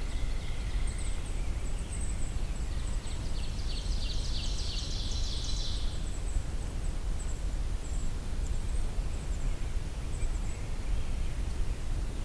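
Brown creeper singing once, about three seconds in: a short jumble of high, thin notes lasting about three seconds.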